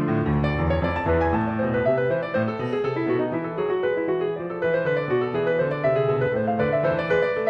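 Background piano music: a calm keyboard piece with a steady flow of notes.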